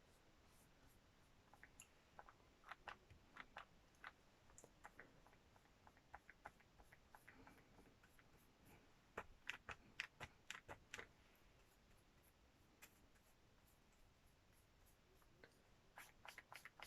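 Faint, irregular small taps and light scratches of hands working on a craft piece, bunched about two to four seconds in and again around the middle, between stretches of near silence.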